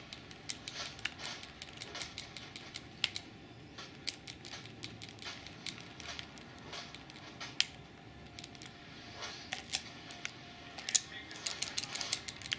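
Irregular light clicks and taps, a few a second, coming thicker and sharper near the end.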